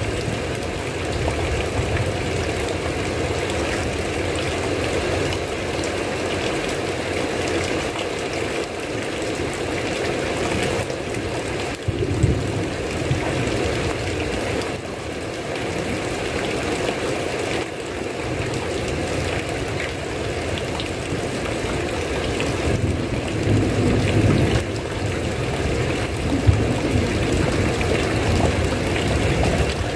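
Heavy rain falling steadily, an even hiss, with a few brief low rumbles about twelve seconds in and again near the end.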